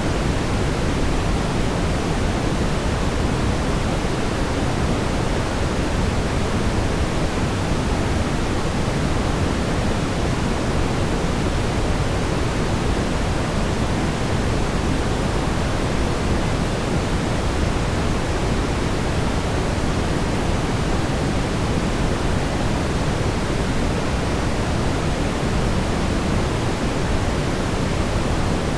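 Steady brown noise: an even, unbroken rumbling hiss, strongest in the bass and dull in the treble.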